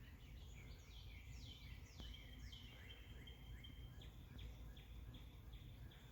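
Faint birdsong: a run of quick falling chirps, coming about twice a second in the second half, over a low steady rumble.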